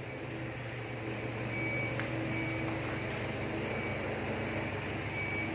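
Drilling machine's electric motor running steadily with a low, even hum, on a trial run.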